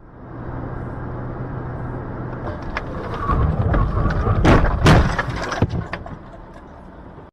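Dashcam recording of a car driving, with steady road and engine noise, then a collision: two loud crashes about half a second apart, about four and a half seconds in, with a few smaller knocks around them.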